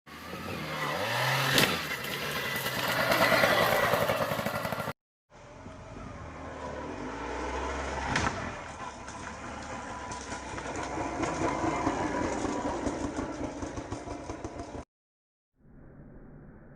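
Motocross bike engines revving and accelerating, in three short recordings cut together. The last, starting about five seconds before the end, is fainter and duller.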